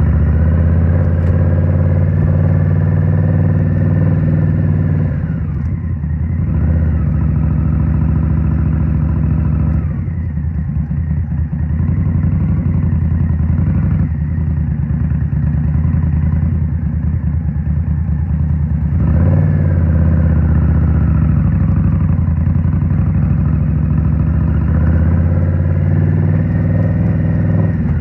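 Indian Scout Rogue's 69 cu-in V-twin running through Rinehart slip-on exhausts, heard from the rider's seat while riding. It pulls up in pitch under throttle, eases off twice in the first ten seconds, and picks up again about two-thirds of the way through and near the end.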